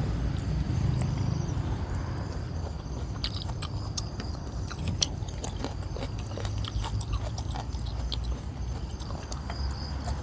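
A person chewing food close to the microphone, with many small irregular mouth clicks. Behind it, a steady high chirring of crickets.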